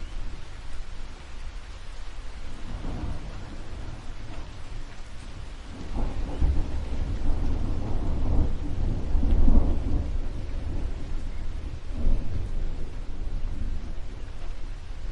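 Thunder rumbling over steady rain. A long, deep roll of thunder builds about six seconds in and is loudest a little past the middle, with a shorter roll about twelve seconds in.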